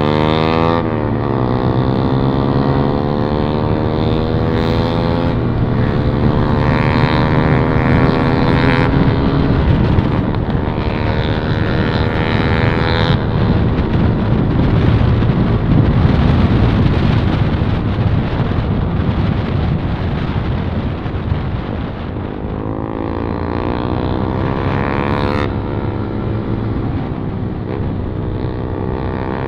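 Yamaha MT-15's 155 cc single-cylinder engine running through a loud modified exhaust with the dB killer removed, ridden on the road. The revs climb and drop back several times, with a rougher, steadier stretch in the middle.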